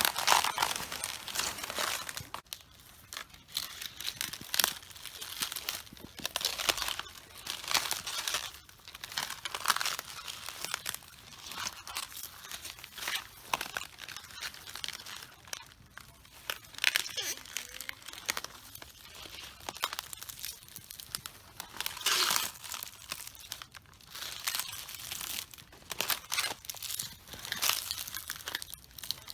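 Cabbages crushed underfoot: with each step the leaves give an irregular crunching, crackling and tearing sound, the steps coming a second or two apart.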